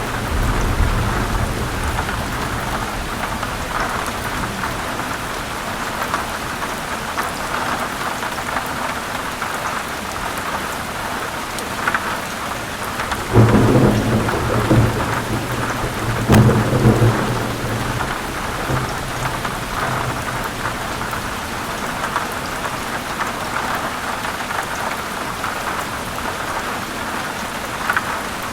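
Heavy rain falling steadily, with thunder: a sharp crack and low rolling rumble about halfway through, then a second one a few seconds later.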